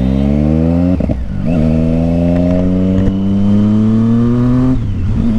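Triumph Street Triple 675's inline-three engine, through an aftermarket Yoshimura exhaust, accelerating hard: its note climbs steadily in each gear, with quick upshifts about a second in and again near the end.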